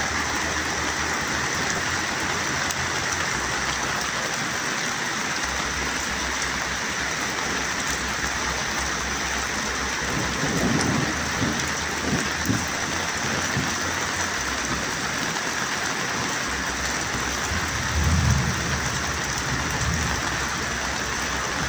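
Heavy rain falling steadily, a constant hiss, with low rumbles coming through about ten seconds in and again near the end.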